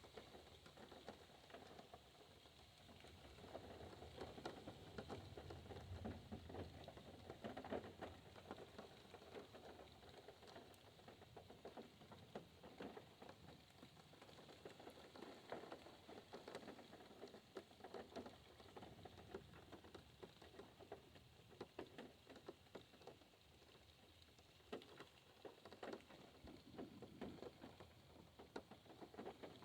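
Rain pattering on a car, heard from inside the car: faint, dense, irregular drops.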